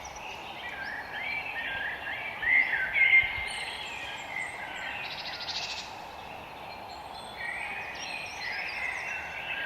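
Several songbirds chirping and singing together in a forest dawn-chorus style, with overlapping phrases and a rapid dry trill about five seconds in, over a steady background hiss.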